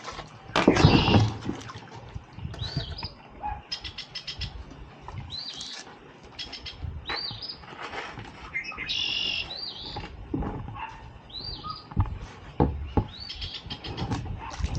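Birds chirping: short, arching high calls repeated every second or two. A loud burst of noise comes about a second in, with a few sharp knocks later.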